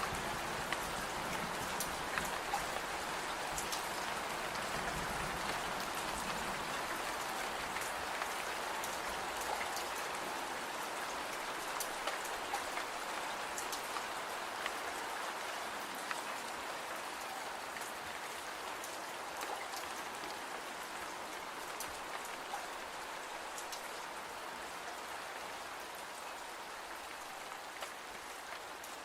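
Steady rain falling, an even hiss with scattered sharp ticks of drops, slowly easing in loudness.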